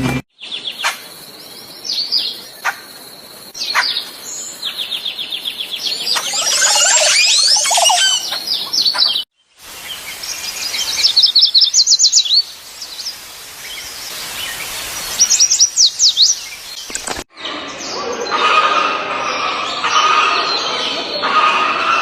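Wild birds singing and calling in three separate recordings joined by abrupt cuts: whistled notes and a rapid trill, then quick bursts of high chirps, then a denser chattering chorus.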